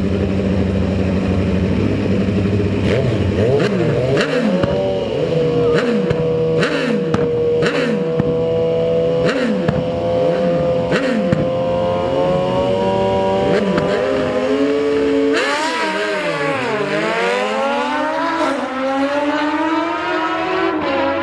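Racing motorcycle engines revved in a run of short blips, then one held at a high, slowly climbing rev. About fifteen seconds in the pitch drops sharply and then climbs steadily as an engine accelerates hard.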